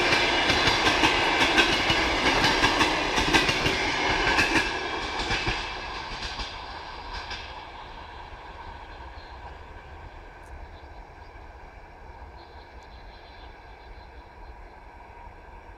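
Passenger coaches rolling past on the track, their wheels clicking over the rail joints in a quick, steady rhythm. After about five seconds the clatter thins and fades as the end of the train moves away, leaving a faint low rumble.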